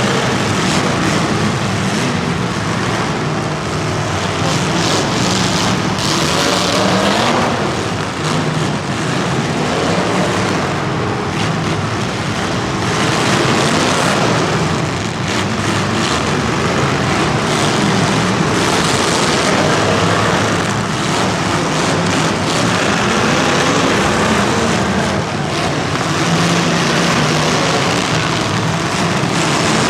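Engines of racing vehicles running, their pitch rising and falling as they rev.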